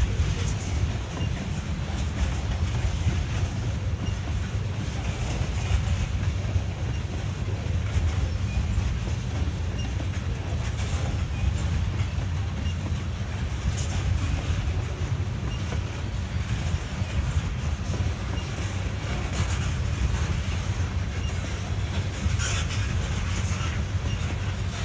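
Heavily loaded oil tank cars rolling very slowly past on steel rails: a steady low rumble of the wheels, with scattered clicks and clanks.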